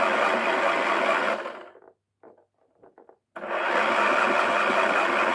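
Toy washing machine's small electric motor running loudly as it spins its drum, cutting off a little under two seconds in, then starting up again about three and a half seconds in.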